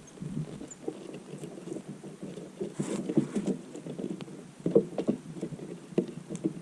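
Birds feeding at scattered seed: a dense run of irregular soft pecking and tapping, with a few faint high chirps.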